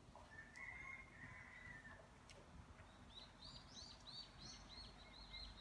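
Faint songbird calls: one drawn-out note, then a quick series of short repeated chirps, about four a second.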